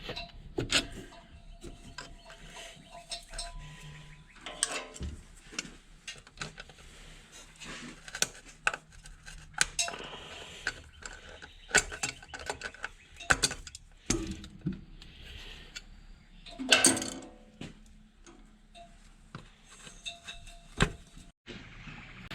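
Metal hand tools at work: a ratchet with a wobble-extension socket clicking on a bolt, with scattered metallic clinks and knocks as tools and parts are handled.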